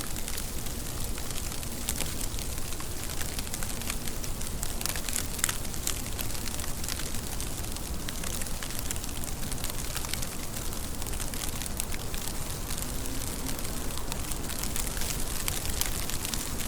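Steady rain falling, an even hiss dense with small crackling drop ticks.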